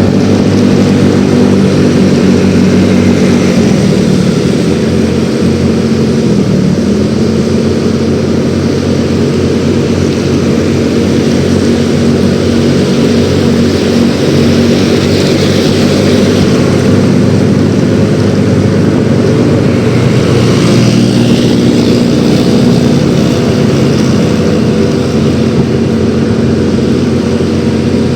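Yamaha X-Ride 113cc scooter's single-cylinder engine running while riding. The engine note drops about four seconds in and picks up again a couple of seconds later, then holds steady.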